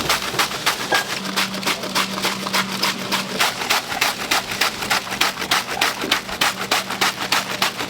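Rapid, even knife chopping on a cutting board, about four to five strokes a second, over a faint steady low hum.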